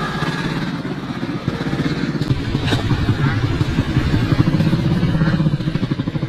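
Motocross dirt bike engines running, growing louder toward the middle and easing off near the end.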